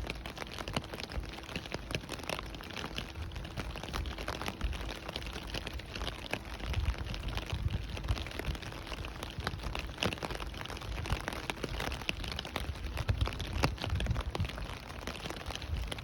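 Steady rain, with many single drops ticking and pattering on surfaces over a continuous hiss and a low rumble underneath. A faint steady hum fades out about nine seconds in.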